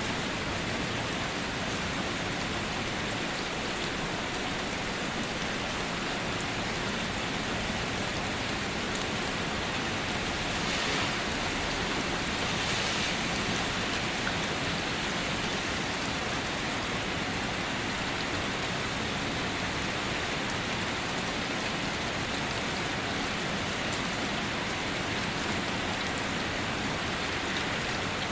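Steady rain falling, a dense even hiss with faint scattered drop ticks, briefly a little heavier about halfway through.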